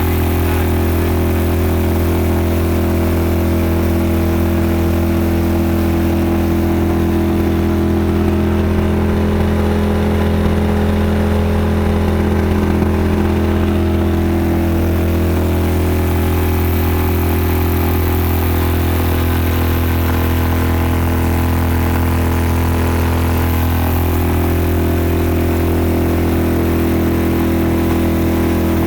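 Suzuki DF 5 four-stroke single-cylinder outboard motor running at a steady speed, with small shifts in pitch now and then.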